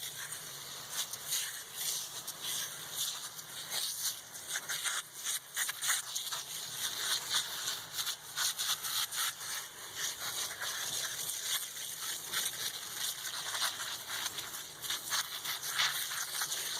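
Foaming air-conditioner coil cleaner sprayed from an aerosol can onto the coil fins: a hiss in short, irregular spurts that stops abruptly.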